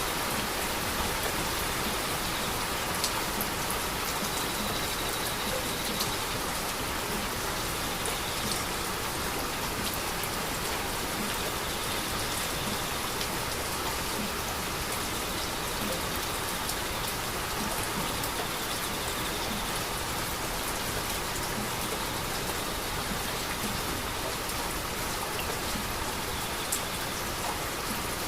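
Steady heavy rain falling on surfaces, an even hiss with now and then a sharper drop tick.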